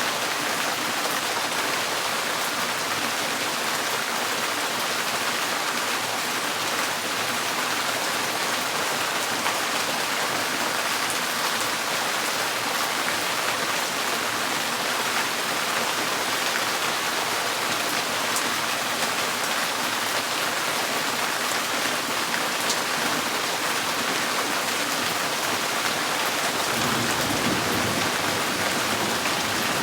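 Steady, heavy rain on a tin porch roof, a dense hiss with scattered drops ticking on the metal. A low rumble comes in briefly near the end.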